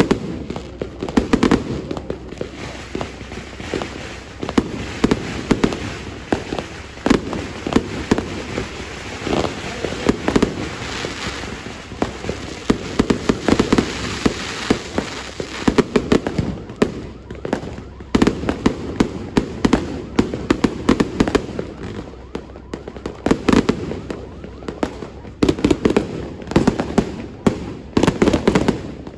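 Aerial fireworks bursting overhead in rapid, overlapping succession: a near-continuous run of bangs and pops. About halfway through it turns into a denser hissing crackle.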